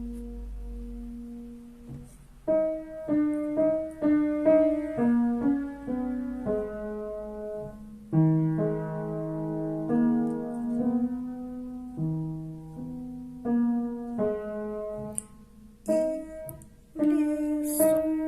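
Piano playing a simple melody over held bass notes, note by note at a moderate pace, with a brief pause near the end.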